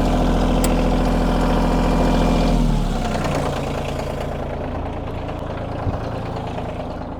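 Kioti tractor's diesel engine idling steadily, then slowing and running quieter about two and a half seconds in as its pitch sinks.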